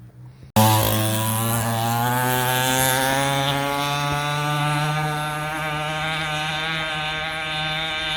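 Small 49cc aftermarket dirt-bike engine running at speed with a buzzy, chainsaw-like note. It starts abruptly about half a second in, rises a little in pitch over the next couple of seconds, then holds steady.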